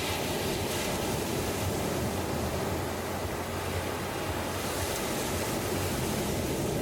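Ocean surf: a steady, low wash of waves, with a hissing swell about five seconds in.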